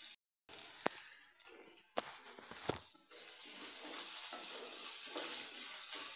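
Onions frying in oil in a steel pan, a sizzle broken by a few sharp knocks of a wooden spatula against the pan, after a brief cut in the sound. From about halfway through, background music takes over.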